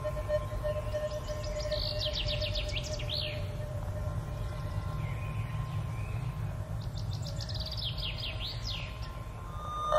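A songbird sings two quick phrases of rapid, repeated down-slurred notes, one a couple of seconds in and another near the end. A steady low rumble and a faint held tone run underneath.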